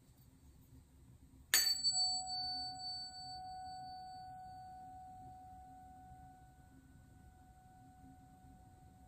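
Tuning fork struck once about a second and a half in: a short sharp click, then a clear ringing tone. Its high overtones fade within a few seconds while the main tone rings on, slowly dying away.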